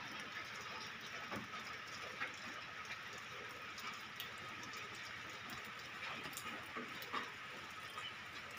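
Steady rain falling, with scattered drips and small taps throughout.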